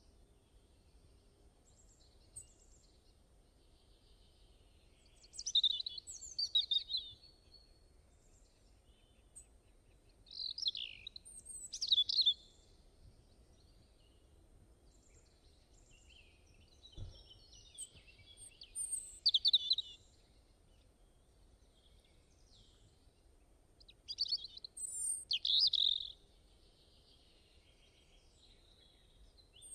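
A songbird singing in short phrases of quick, high chirping notes, each phrase about two seconds long and repeated every six seconds or so, with quiet between.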